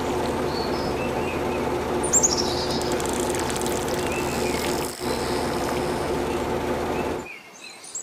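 Birds chirping now and then over a steady hum with several held tones; the hum cuts off about seven seconds in.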